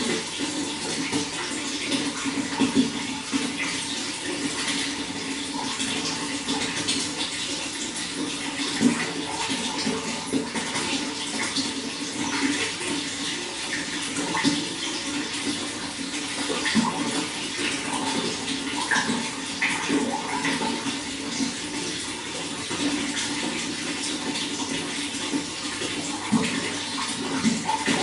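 Running water flowing steadily, with many small splashes all the way through.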